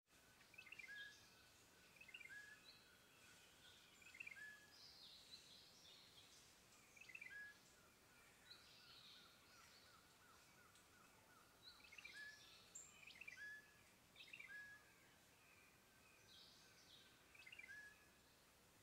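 Faint birdsong: a bird repeating a short chirped phrase that ends on a brief clear note, every second or few, with higher chirps from other birds over a quiet outdoor background.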